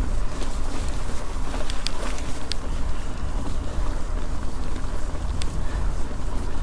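Wind rumbling on the microphone of a mountain bike being ridden up a dirt trail, with tyre noise and a few sharp clicks from the bike.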